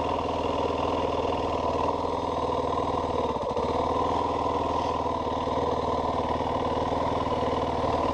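Yamaha WR450F single-cylinder four-stroke dirt bike engine idling steadily after being brought to a stop.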